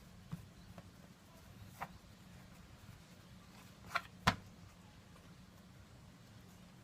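A few light clicks or taps, with two sharper ones in quick succession about four seconds in, over a faint low steady hum.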